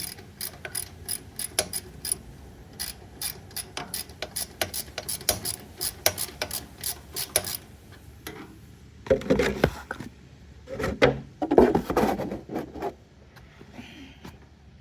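Ratchet wrench with a hex socket clicking in a long run of quick, even clicks as it loosens a mini excavator's hydraulic tank drain plug. About two-thirds of the way through come two louder stretches of noise.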